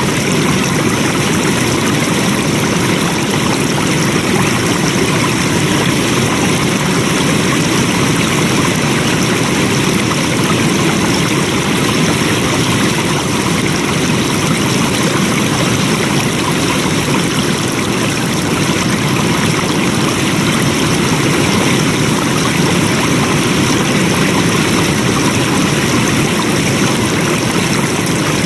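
Flowing stream water running steadily, an even rushing and trickling with no change.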